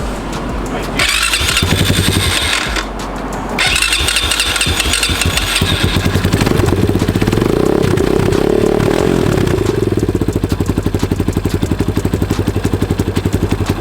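Cold Kawasaki dirt bike engine being cranked over in two tries, catching about six seconds in. It revs up briefly, then idles with a fast, even beat and cuts out at the end, as it does while still warming up.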